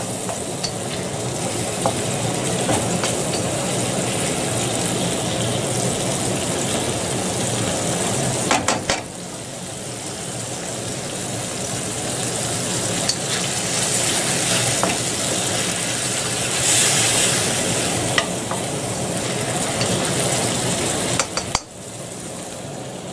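Strips of steak sizzling as they fry in a wok, stirred with a wooden spatula that clicks and scrapes against the pan. The sizzle drops briefly about nine seconds in and again near the end.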